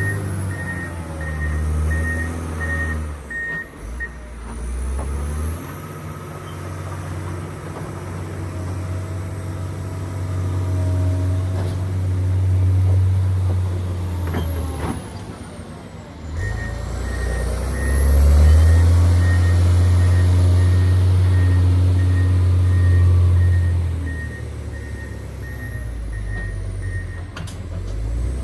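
John Deere 670GP motor grader's diesel engine running under changing load, swelling and easing. Its reverse alarm beeps steadily, about twice a second, near the start and again through the second half while the grader backs up.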